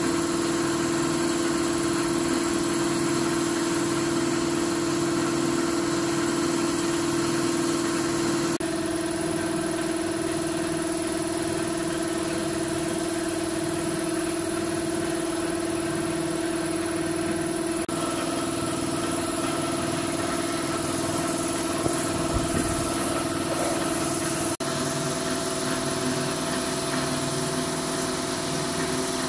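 Restored diesel engine running steadily at idle, its speed shifting slightly a few times.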